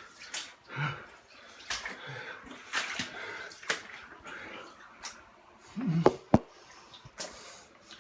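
Water sloshing and splashing in irregular strokes as someone wades through shallow floodwater inside a flooded house, with a couple of sharp knocks about six seconds in.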